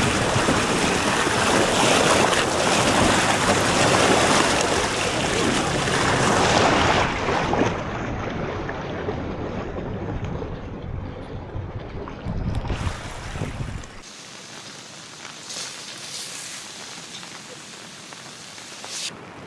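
Strong wind buffeting the microphone over rain, loud at first, easing after about seven seconds and cutting off abruptly about fourteen seconds in. A quieter steady patter of rain with a few sharper drops follows.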